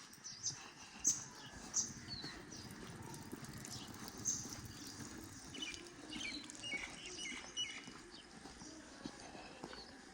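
Birds chirping in short high calls, thickest a little past the middle, with scattered light clicks and taps.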